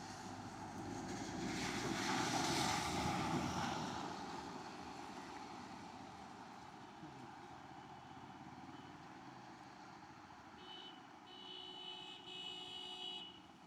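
A vehicle passes by, its noise swelling about two seconds in and fading away over the next few seconds. Near the end, a steady high electronic-sounding tone with several pitches sounds for about three seconds.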